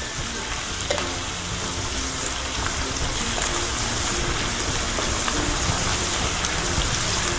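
Grated garlic, sliced ginger and green chillies frying in hot oil in a nonstick frying pan, a steady sizzle that grows a little louder, with a wooden spatula stirring through it.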